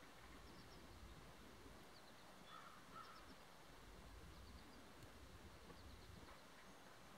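Near silence: faint outdoor ambience with distant bird calls, small high chirps scattered throughout and two short calls around three seconds in.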